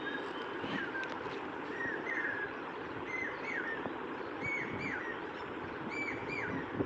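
A bird calling repeatedly: short paired chirps, each note rising then dropping, repeated about every second and a half over steady background noise.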